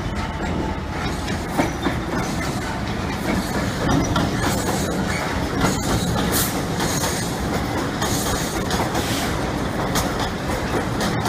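A train running past at close range, its wheels clicking over the rail joints in a steady, continuous rumble.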